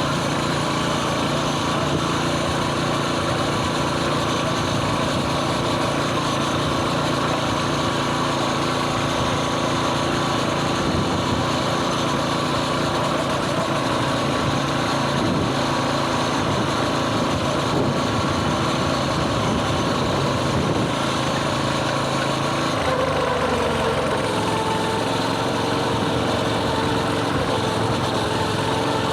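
Coleman mini bike's small single-cylinder four-stroke engine running steadily under way; about three-quarters through, the revs drop and settle at a lower, steady pitch as the bike eases off.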